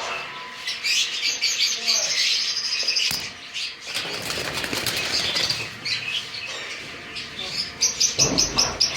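Many small aviary birds chirping in a dense, continuous high chatter, with wings flapping as birds fly about the cage. A broader rushing noise comes in around the middle, and a low thump comes near the end.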